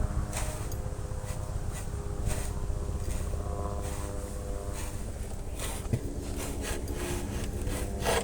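Dog rubbing his rump against the edge of a pickup truck, giving scattered scraping strokes that come more often near the end, over a steady low hum.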